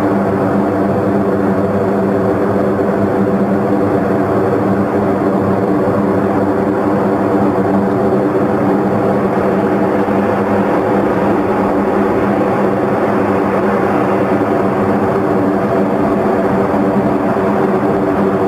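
C-130 turboprop engines running steadily: an even propeller drone of several steady tones over engine noise, holding a constant level with no rise or fall.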